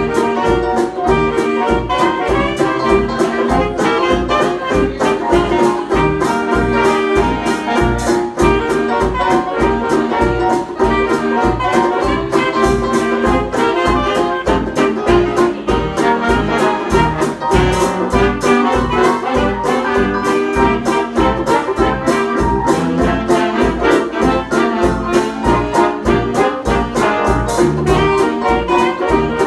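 Instrumental break of a jazz dance band after the vocal chorus: brass leading the tune over a steady, even beat.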